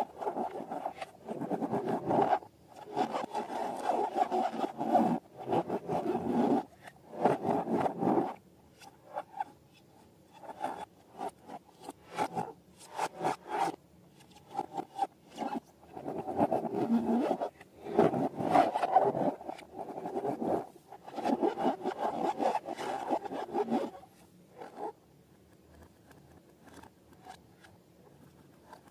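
Irregular bursts of rubbery rubbing and scraping from handling balloons while making slime, quieter near the end.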